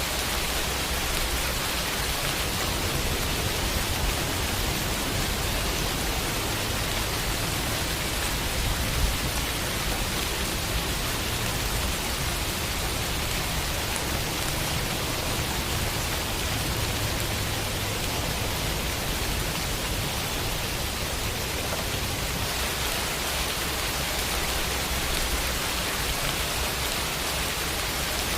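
Steady rainfall pattering on a window, an even hiss with no let-up. A single sharper drop stands out about nine seconds in.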